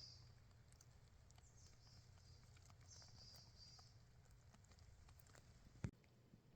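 Near silence in the woods: a faint, high, wavering bird call comes twice, about two and three seconds in, with a few soft ticks and one sharper click near the end.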